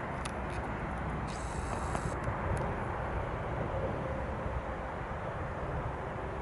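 Steady low rumble of a train running in the distance. About a second and a half in, a brief high whine is heard over it.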